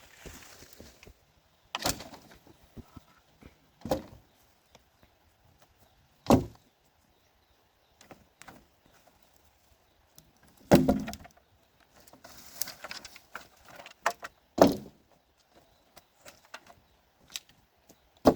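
Heavy wooden thuds, six in all and a few seconds apart, typical of logs being thrown down onto a pile or truck bed.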